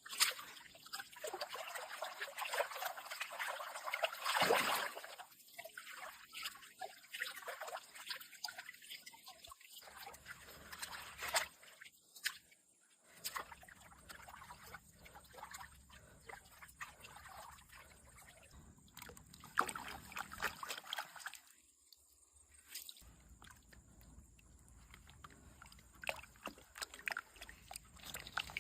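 Water trickling and sloshing unevenly, swelling and fading, with scattered small sharp splashes.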